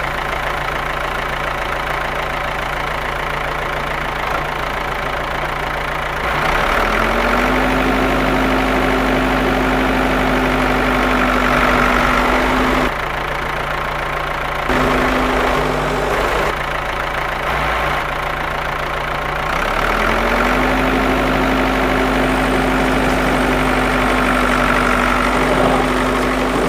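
A motor running steadily. A second, higher motor tone winds up about six seconds in and runs, stops twice, and winds up again about twenty seconds in.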